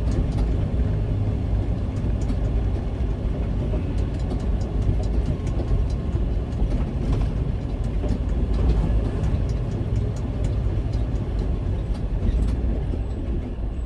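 Semi truck running as it drives, heard from inside the cab: a steady low engine and road rumble with scattered light clicks and rattles.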